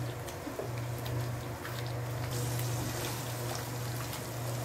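Chicken in a thick masala gravy bubbling and sizzling as it is fried down in a nonstick wok, with small spatter ticks and occasional spatula stirring, over a steady low hum. The sizzle grows brighter about halfway through.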